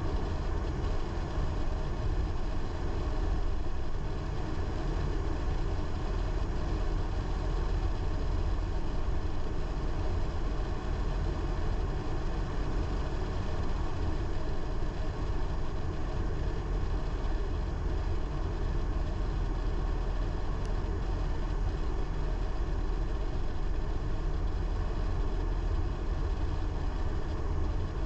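Car driving at a steady pace: constant engine and tyre-on-road noise with a deep low rumble, no change in speed.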